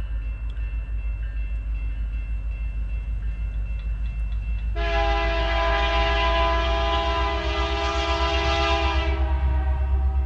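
A train rolling past close by with a steady low rumble and a regular pulsing. About five seconds in, the locomotive's air horn sounds one long multi-note chord for about four seconds, then fades.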